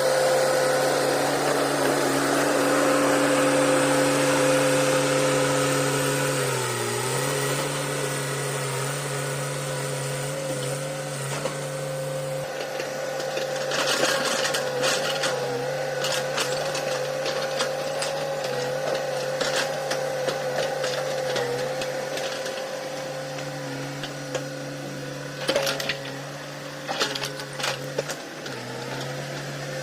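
Hitachi hydraulic excavator's diesel engine running steadily, its pitch dipping briefly under load about seven seconds in and again near the end. From about halfway through, scattered clanks and knocks are heard over the engine.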